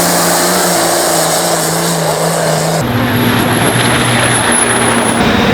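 Loud engines running steadily. About three seconds in, the sound switches abruptly to a different, lower-pitched engine drone with a faint high whine above it.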